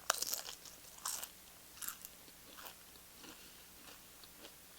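Close-miked biting into a crunchy corn tortilla chip, a sharp loud crunch, then chewing it with a few more crunches that grow fainter.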